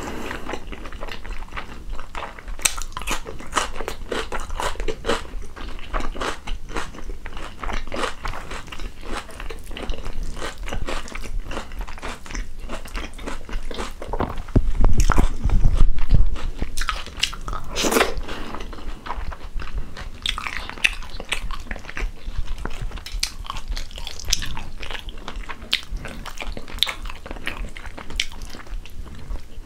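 Close-miked chewing and biting: wet mouth clicks and crunches of a mouthful of rice, chicken stew and raw vegetables eaten by hand. About fifteen seconds in there is a louder, deeper rumble lasting about two seconds.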